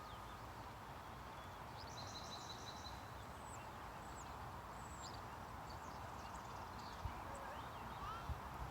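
Birds chirping and whistling faintly in short, scattered calls over steady outdoor background noise, with one longer held high note about two seconds in.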